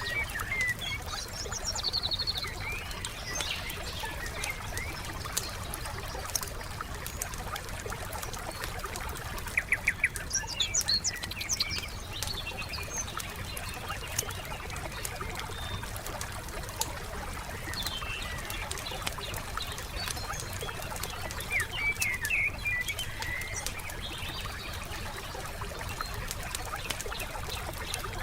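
Wood campfire crackling with scattered small pops, while songbirds chirp and call now and then. About ten seconds in, a quick run of loud, sharp clicks stands out.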